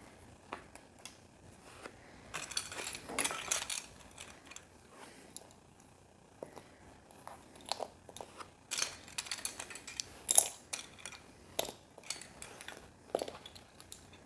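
Small plastic LEGO pieces being handled: scattered sharp clicks and rattles, bunching into denser rattling about two to four seconds in and again around nine to ten seconds in.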